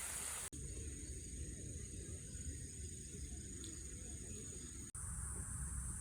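Insects trilling steadily at a high pitch over a low, steady outdoor rumble. The sound cuts out sharply twice, about half a second in and near five seconds.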